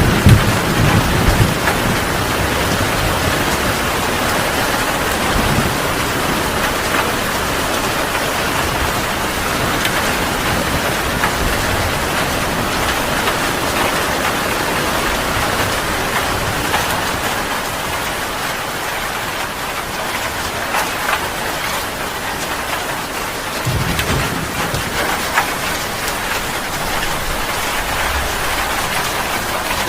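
Heavy rain pouring steadily, with a low thunder rumble in the first seconds and another about three-quarters of the way through.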